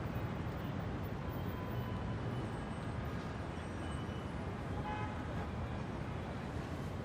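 Steady background rumble of road traffic, with a faint short horn toot about five seconds in.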